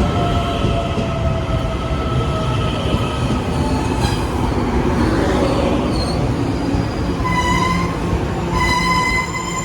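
Puyuma Express tilting electric multiple unit pulling into a station, its running noise carrying a slightly falling whine, then from about seven seconds in a strong, high, steady squeal with several overtones. This trainset is noted for an abnormal noise.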